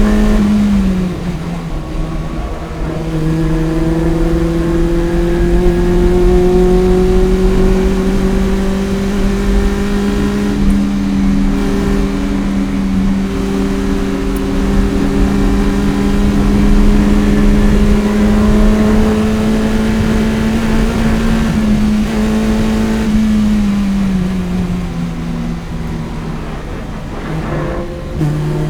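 Toyota MR-S's 1ZZ four-cylinder engine, breathing through an aftermarket header and Fujitsubo exhaust, pulling hard with its revs climbing slowly and steadily for about twenty seconds. The engine note drops briefly about a second in and again near the end, then picks up once more.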